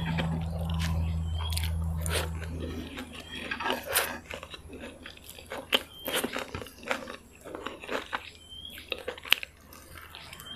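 Close-miked chewing of fried rice vermicelli with bean sprouts and peanut sauce: irregular wet mouth smacks and crunchy bites. A low steady hum stops about three seconds in.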